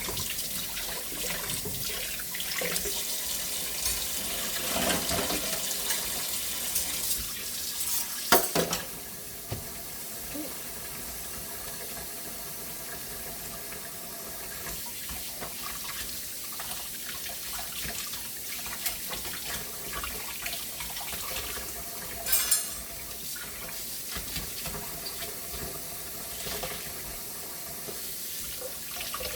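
Water running from a kitchen tap into the sink, steady throughout, with two sharp knocks, one about eight seconds in and one about twenty-two seconds in.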